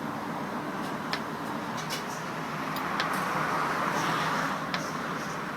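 Steady rumbling background noise, like vehicle noise, swelling a little past the middle, with a few sharp clicks scattered through it.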